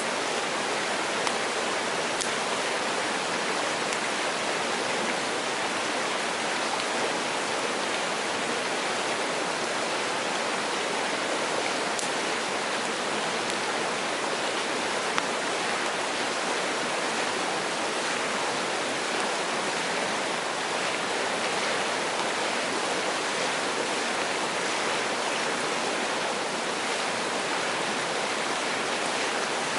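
A mountain stream running steadily over rocks, with a few faint sharp clicks, the clearest about halfway through.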